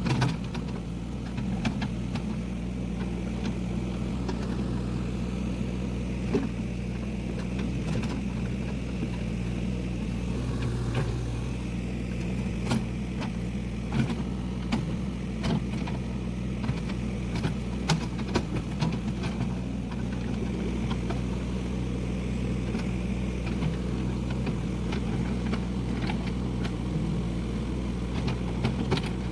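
Hyundai 02-class excavator's diesel engine running steadily, with scattered sharp knocks and clanks throughout.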